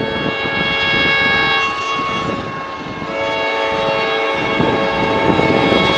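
Diesel locomotive P20's multi-note horn sounding a long chord that shifts pitch about a second and a half in, then a second long blast from about three seconds in, over the low rumble of the passing locomotive.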